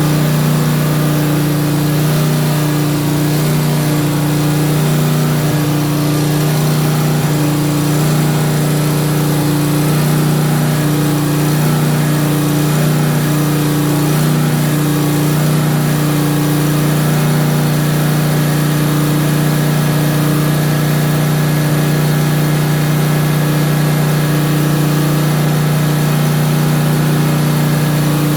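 Electric generator's engine running steadily with a loud hum. For the first 17 seconds or so the note wavers back and forth between two pitches about once a second, then settles to an even note.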